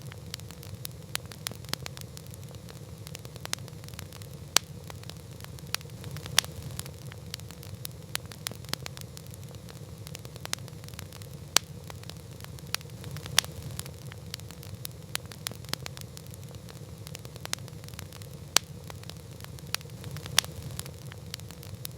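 Wood campfire burning with irregular sharp crackles and pops over a steady low rumble of the flames.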